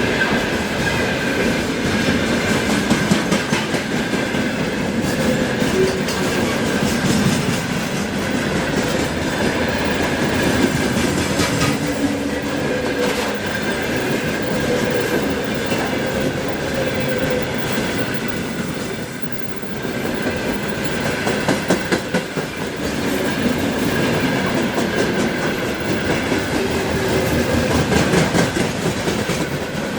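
Freight train wagons rolling past, wheels clattering over rail joints, with a steady high-pitched whine from the wheels.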